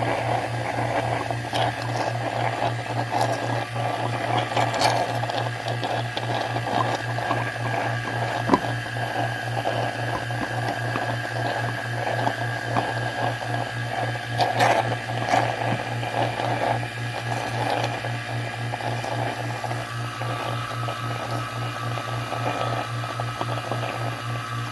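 A/C vacuum pump running steadily with a low hum, while compressor oil is drawn through the low-side hose into the evacuated system, adding an irregular crackling, gurgling noise.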